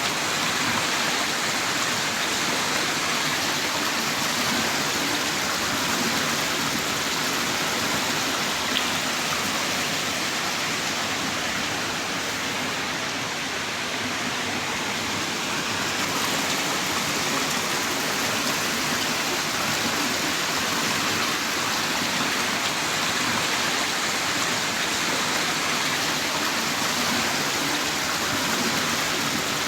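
Heavy rain pouring in a steady downpour, a dense, even hiss with no separate drops standing out.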